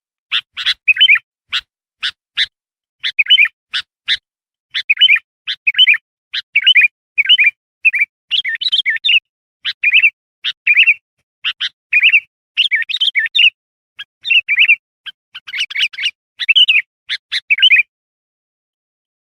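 Sooty-headed bulbul (kutilang) calling: a fast, busy run of short sharp notes mixed with bubbly warbled phrases, stopping abruptly near the end.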